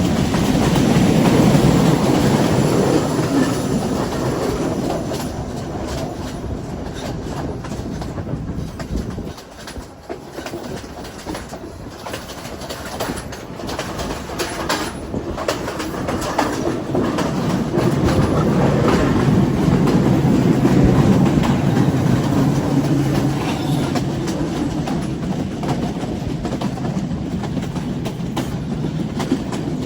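Passenger train running along the line: a steady rumble with the clickety-clack of wheels over the rail joints. It eases off for a couple of seconds about nine seconds in, then builds again to its loudest around twenty seconds in.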